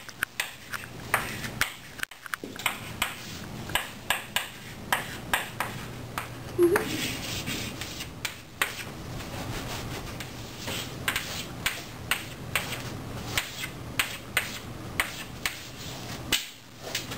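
Chalk tapping and clicking against a chalkboard as lines are written, in sharp irregular clicks about one or two a second. About seven seconds in, a brief low tone stands out as the loudest moment.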